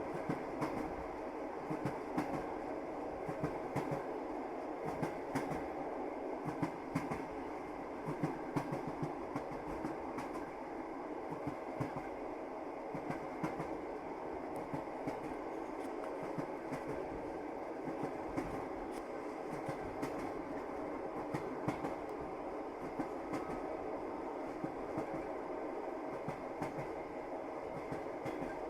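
Passenger train running, heard from inside the carriage: a steady rumble with the wheels clicking repeatedly over rail joints.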